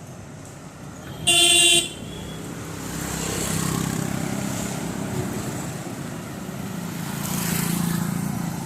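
A vehicle horn honks once, short and loud, about a second in. Then road traffic noise builds, with engine rumble and tyre noise swelling twice as vehicles pass.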